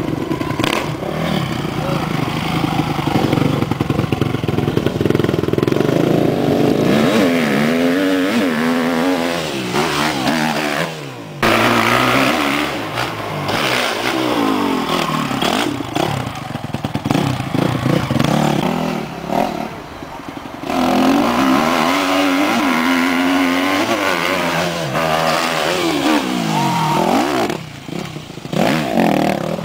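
Motocross dirt bike engines revving hard, their pitch repeatedly climbing and dropping as the throttle is opened and shut, broken by sudden cuts about 11 seconds and 20 seconds in.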